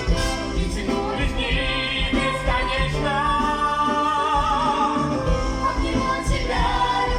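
Musical-theatre song: a woman sings over band accompaniment with a steady low beat. In the middle she holds a long note with vibrato.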